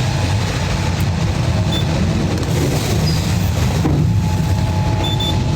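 Sawmill machinery running steadily with a low rumble. A thin whine comes in about four seconds in.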